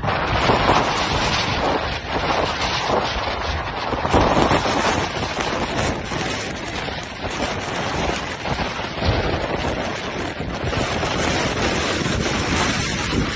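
Strong sandstorm wind buffeting the microphone: a loud, continuous noise that rises and falls in uneven gusts.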